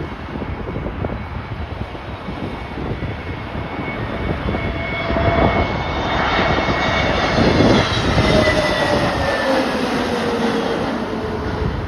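Jet airliner on landing approach passing close by, its engine noise building to a peak about eight seconds in while the engine whine slides down in pitch as it passes, over gusty wind on the microphone.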